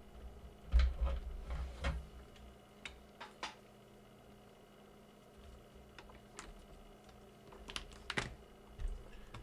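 Handling noises on a workbench: scattered light clicks and taps. There are heavier knocks in two clusters, one about a second in and one near the end.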